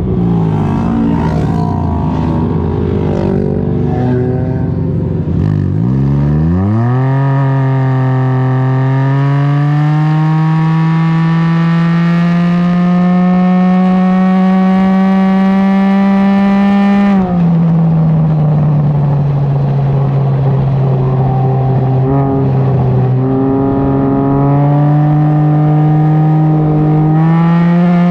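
Can-Am Ryker's three-cylinder engine through a BKD Insomnia series aftermarket exhaust, pulling away with its note climbing steadily in pitch. It drops suddenly about two-thirds of the way through, then holds and climbs again near the end. At first the engines of other Rykers mix in.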